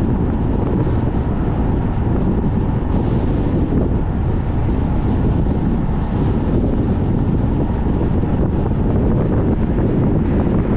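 Strong wind buffeting the microphone in a moving car: a loud, steady low rumble.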